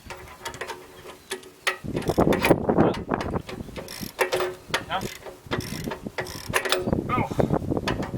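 Metal clicking and clanking with a few short squeaks from work on a tractor's three-point back blade and its hitch pins and bolts. The sounds are loudest about two to three seconds in.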